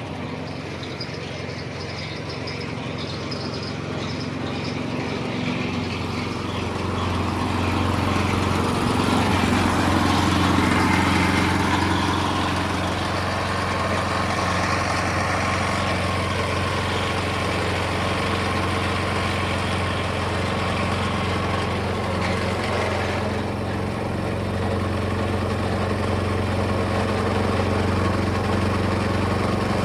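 Small gasoline engine on a trommel wash plant running steadily, driving the belt-driven water pump. The sound swells about eight seconds in and settles back a few seconds later.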